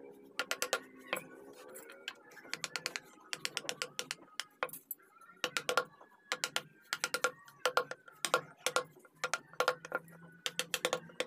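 Carving chisel being driven into wood by a mallet in quick bursts of light taps, a new burst every second or so.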